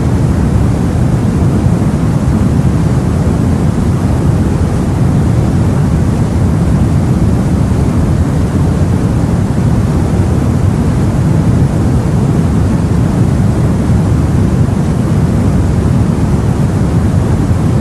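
Steady, low rumbling rush of the sea as heard aboard a boat, even throughout with no separate wave breaks or knocks.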